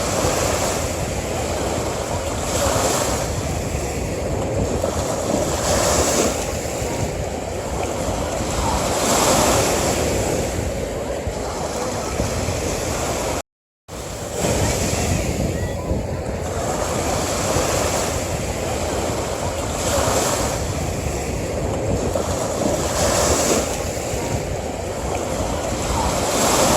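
Ocean waves breaking and washing onto a beach, a steady surf that swells every few seconds. The sound cuts out for a moment about halfway through, then the same wave recording starts over.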